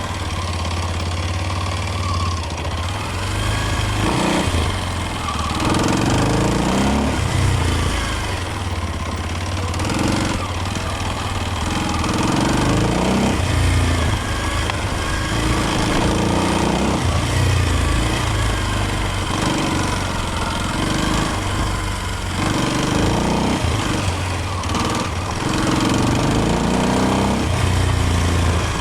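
Kawasaki KLX230's 233 cc air-cooled single-cylinder four-stroke engine running under way, its note rising and falling again and again with the throttle as it is ridden over rough ground.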